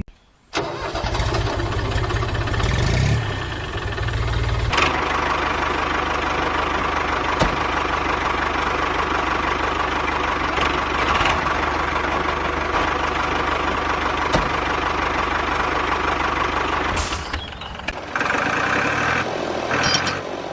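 Mini tractor running with a steady engine-like sound. The sound starts after a brief gap, changes about five seconds in, and shifts again near the end.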